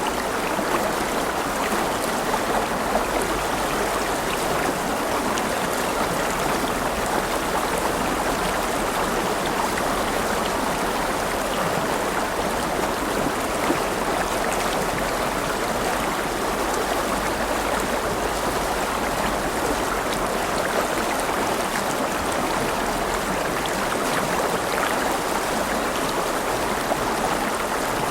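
River water rushing and babbling steadily over stones, a continuous splashing flow with small droplet flecks.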